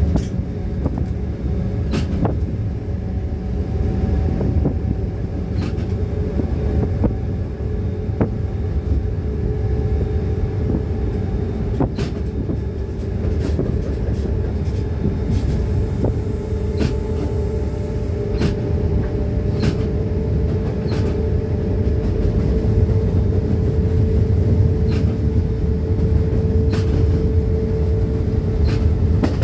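Freight train running along the track, heard from the locomotive cab: a steady low rumble of the moving train with a steady hum, and sharp clicks at irregular intervals.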